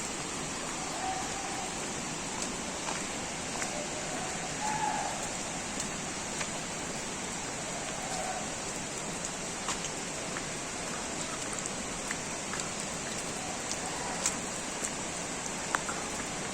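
Steady hiss of falling water, with scattered faint sharp ticks throughout and a few faint short chirps in the first half.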